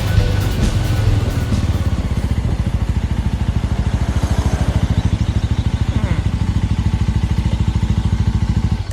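Suzuki Thunder 250's single-cylinder engine running at an even, steady beat. Background music fades out in the first second or two.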